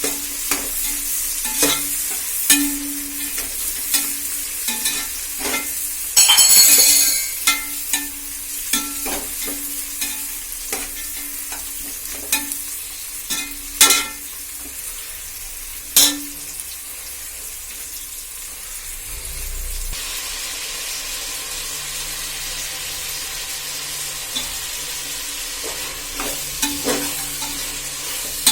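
Food frying and sizzling in a pan while it is stirred, with a utensil clicking and knocking against the pan. The sizzle surges loudly for about a second, some six seconds in, and the last part is a steadier sizzle with fewer knocks.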